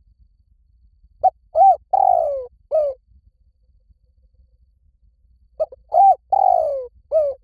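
Spotted dove cooing: two calls about four seconds apart. Each is a short note, an arched coo, a long coo that slides downward, and a short closing coo.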